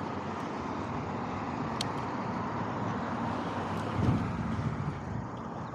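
Steady road traffic noise from passing cars, with a low vehicle rumble swelling about four seconds in.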